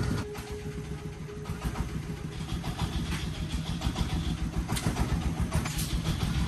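An engine running steadily with a fast, even pulsing, and a few short clicks over it.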